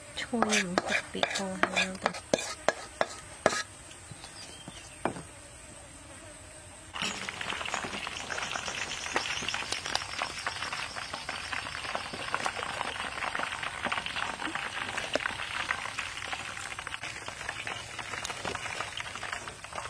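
Chicken frying in hot oil: a dense, steady sizzle full of small crackling pops that starts about seven seconds in, after a few sharp clicks and knocks near the start.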